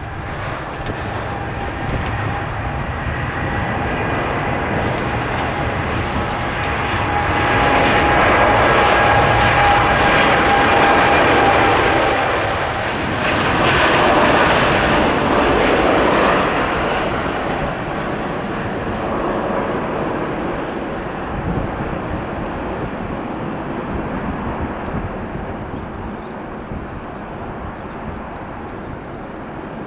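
Boeing 787-8 airliner's jet engines at high power with steady whining tones, swelling to their loudest about midway through as the aircraft passes, then fading.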